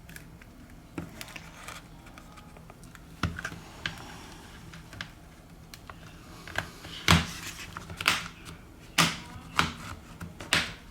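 Irregular sharp plastic clicks and snaps as a tablet's display is pried away from its frame with a plastic pick, the plastic catches letting go. Sparse at first, the clicks grow louder and come more often in the second half.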